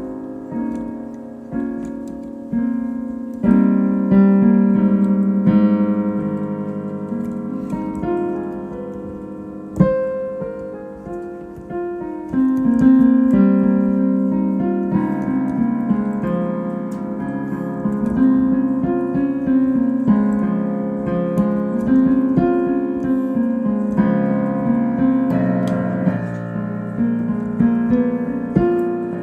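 Solo piano playing an improvised piece: slow, sustained chords with notes struck again and again over ringing, held harmonies.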